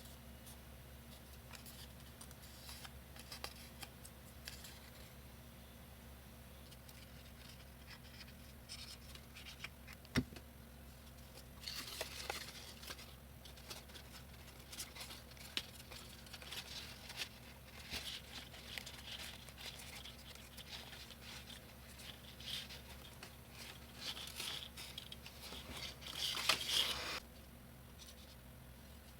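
Sheets of construction paper being handled and cut: scattered rustling, crinkling and snipping over a steady low hum, with one sharp click about ten seconds in and a louder spell of rustling near the end.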